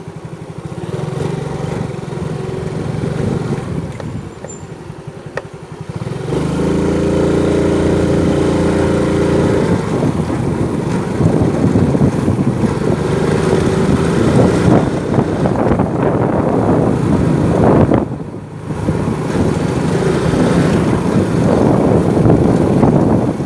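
Motorcycle engine running while riding. About six seconds in it gets louder and higher in pitch, and about eighteen seconds in it drops off briefly before picking up again.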